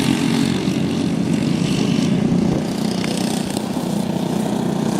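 Racing kart engines, Briggs & Stratton Animal four-strokes, running at speed in a race, a steady engine note.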